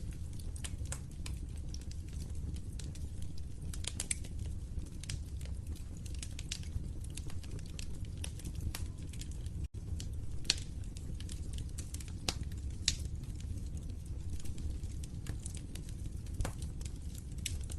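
Wood fire in a fireplace crackling, with irregular sharp pops and snaps over a steady low rumble of flames. The sound drops out for a split second about ten seconds in.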